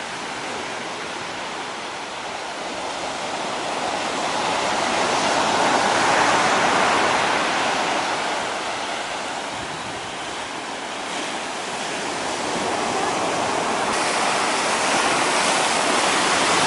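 Pacific surf breaking on the beach: a steady wash of noise that swells, eases off around the middle and swells again as the waves come in.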